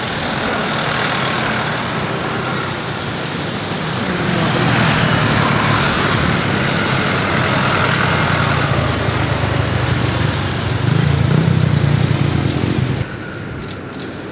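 Loud roar of a jet airliner's engines passing close by on approach, building about four seconds in and cutting off sharply near the end.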